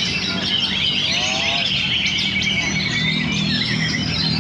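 Several oriental magpie-robins (kacer) singing at once: a dense, overlapping stream of whistles and chirps, with a rapid run of repeated notes about halfway through. A low steady hum lies beneath.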